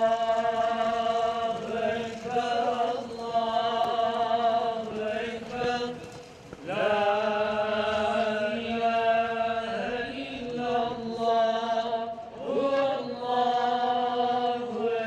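A single man's voice chanting an Islamic religious recitation in long, ornamented held phrases, breaking off twice for breath.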